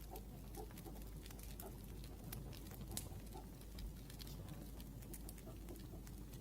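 Wood fire crackling, with many small irregular pops over a low steady hum.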